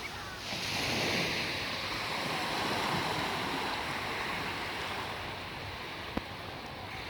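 Sea waves breaking and washing up a sandy beach: a surge of surf swells about half a second in and slowly fades away.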